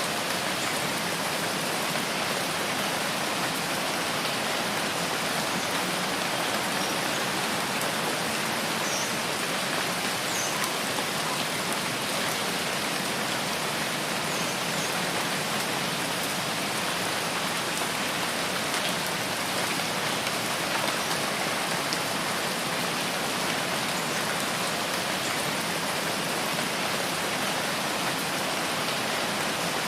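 Steady rain falling in a forest, an even hiss of countless drops on leaves and ground with no change in intensity.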